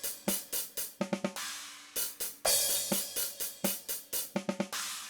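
Playback of a DrumGizmo virtual drum kit groove, mostly hi-hat and cymbal hits with snare strokes and two quick flurries of hits; the bass drum has been sent to minus infinity and is not heard.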